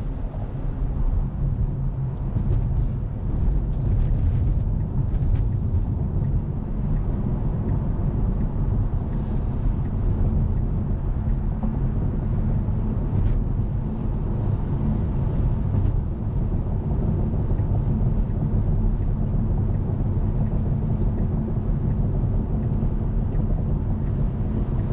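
Steady low rumble of road and tyre noise inside an electric Tesla Model 3 Performance cruising on the highway, with no engine sound.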